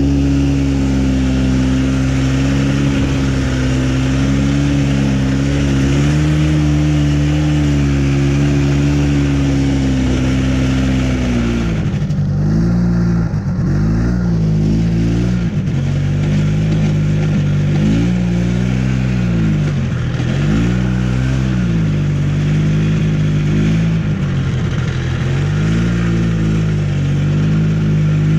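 Vintage two-stroke snowmobile engine running at a steady speed, then from about twelve seconds in its revs repeatedly rise and fall back, every couple of seconds.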